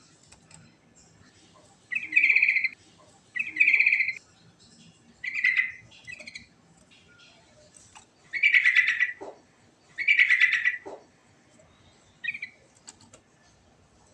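Yellow-vented bulbul (trucukan) singing: a series of short, bubbly, rapidly trilled phrases with pauses between them. The two longest phrases come in the second half.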